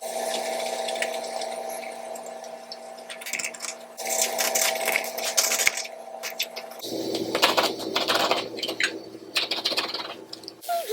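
Small hand tools scraping and clicking against watch parts at close range, over a steady mechanical hum; the sound changes abruptly twice.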